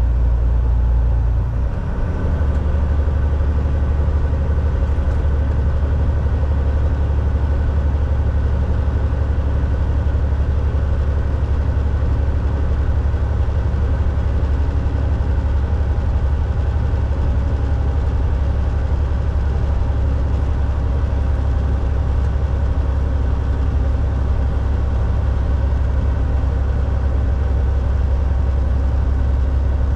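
Cab interior of a Volvo VNL 760 semi truck on the highway: a steady low diesel engine drone mixed with road noise. About two seconds in, the engine note dips briefly and settles at a different pitch.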